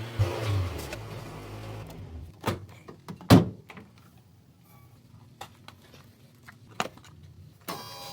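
A low hum lasting about two seconds, then two sharp knocks about a second apart, the second the loudest, followed by a few fainter clicks. Near the end a burst of steady ringing tones begins.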